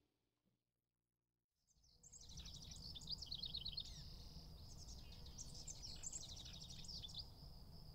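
Faint songbird singing in quick high chirps and trills, starting about two seconds in, over a low outdoor rumble.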